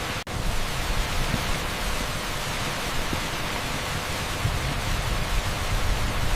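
Torrential rain pouring down on an asphalt street: a dense, steady hiss. It cuts out for an instant about a quarter second in.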